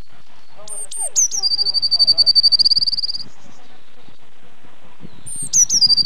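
A small songbird singing: a few sharp, steeply rising and falling whistled notes, then a fast, even trill at one pitch lasting almost two seconds. A new phrase starts near the end.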